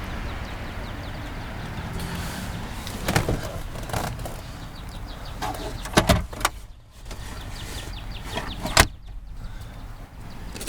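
Electric power seat motor running as the passenger seat is moved through its adjustments, with sharp knocks about three seconds in, about six seconds in and near the end.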